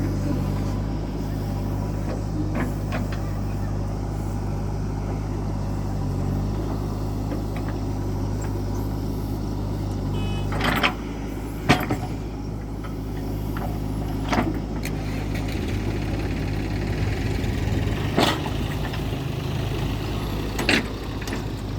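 Heavy diesel machinery running steadily, its engine note changing pitch about halfway through. In the second half come a handful of sharp knocks, the loudest near the middle.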